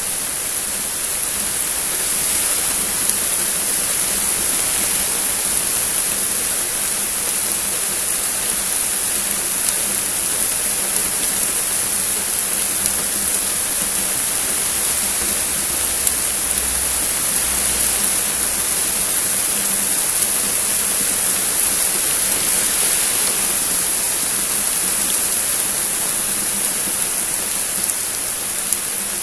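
Heavy thunderstorm rain falling steadily, a dense even hiss with a few sharp ticks of drops.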